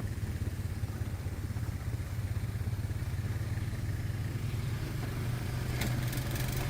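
ATV engine running steadily with a low, rapid pulsing note. There are a few light clicks near the end.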